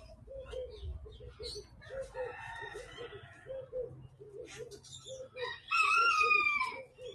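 Aviary birds calling: a low call repeats several times a second throughout. Near the end comes one loud drawn-out call, about a second long and falling slightly in pitch.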